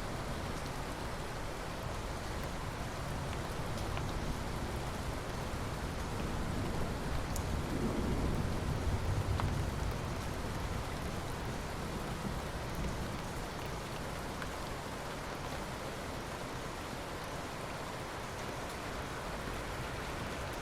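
Steady rainfall, drops pattering on surfaces, with a brief low swell of rumble about eight seconds in.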